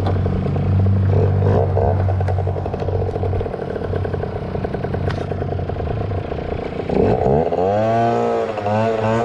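Two-stroke Yamaha ZR Evo scooter engine running at a steady speed, then revved up and down from about seven seconds in, its pitch rising and falling.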